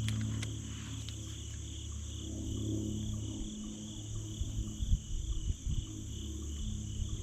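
Steady high-pitched chorus of crickets and other insects, one part of it pulsing. Under it a low rumble, then from about four seconds in irregular low thumps and a few clicks.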